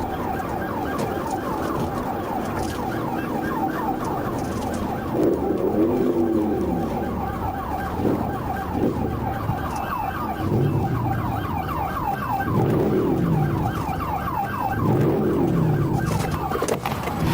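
Police patrol car siren on fast yelp, a rapid repeating sweep several times a second. A lower rising-and-falling tone swells in and out a few times beneath it.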